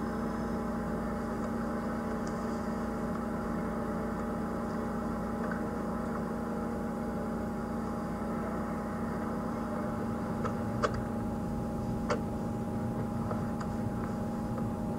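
Safari game-drive vehicle's engine idling with a steady hum, with two short clicks near the end.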